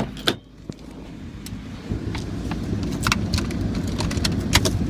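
Car engine idling after a remote start, joined from about two seconds in by a loud low rumble and a run of sharp clicks and crunches.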